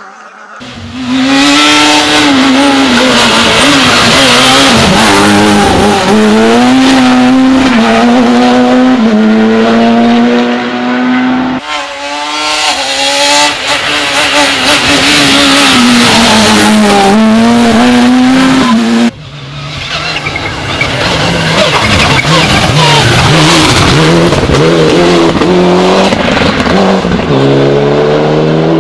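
Rally cars at racing speed passing close over a crest, engines at high revs with brief dips in pitch as the drivers lift and shift, over loud tyre and gravel noise. Three separate passes follow one another, each cut in abruptly.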